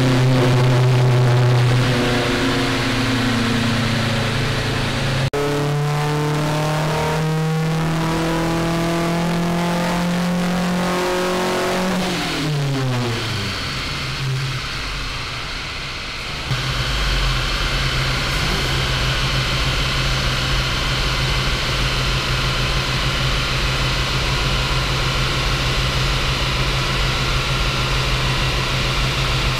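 Volvo 145's B20 four-cylinder engine with twin Weber 45 carburettors pulling at full load on a chassis dyno, revs climbing steadily, then falling quickly as the throttle is lifted about twelve seconds in. For the rest, a steady loud rushing hum.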